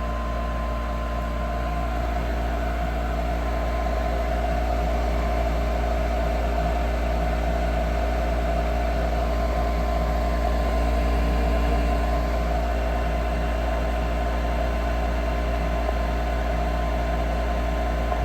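Gas furnace draft inducer motor running with a steady hum and low drone.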